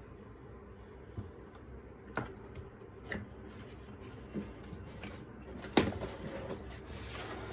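Scattered clicks and knocks from objects being handled and set down during an unboxing, the loudest about six seconds in, followed by soft rustling, over a steady low hum.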